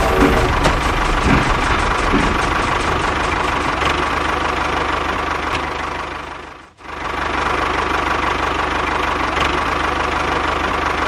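Small motor and gears of a homemade mini toy tractor running steadily, cutting out briefly about two-thirds of the way through and then running again.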